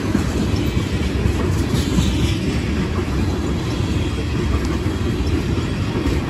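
A train rolling past on the rails: a steady, continuous low rumble of the cars and wheels, with faint light clicks over it.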